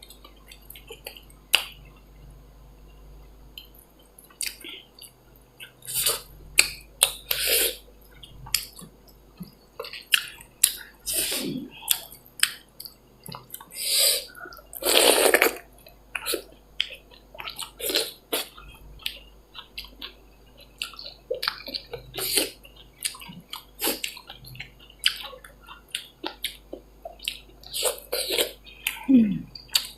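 Close-up eating sounds of dal bhat and chicken: irregular mouth smacks, chewing and small clicks, with a few louder short bursts.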